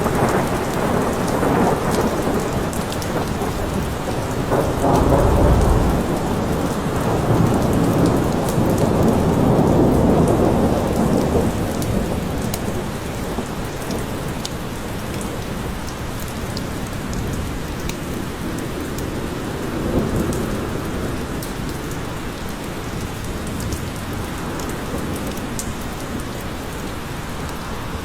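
Steady forest rain with fine patter of drops, and thunder rolling low and long through it, swelling about five seconds in and fading out by about twelve seconds; a smaller rumble comes near twenty seconds.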